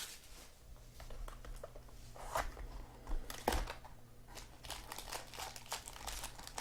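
Trading cards and foil pack wrappers being handled, in a few short crinkling rustles over a faint low hum.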